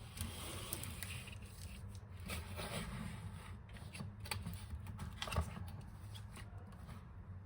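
Packaging of a boxed manga set being handled and opened: irregular rustling, scraping and small clicks.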